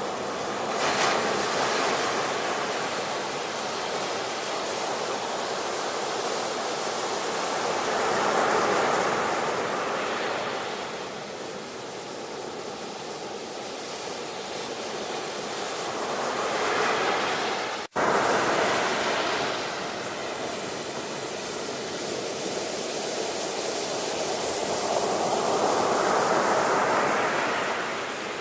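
Ocean waves washing in and receding, each surge swelling and then fading roughly every eight or nine seconds. About two-thirds of the way through, the sound cuts out for a split second.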